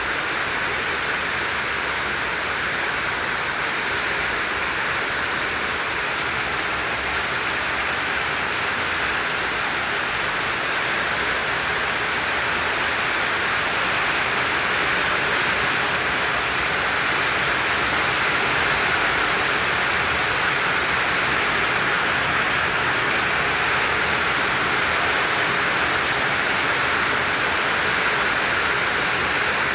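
Heavy rain falling steadily, a dense even hiss, growing a little heavier about halfway through.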